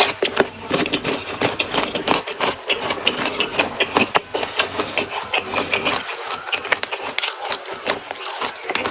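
Close-up chewing of crunchy raw vegetables and rice, a fast, uneven run of wet crunches and mouth clicks.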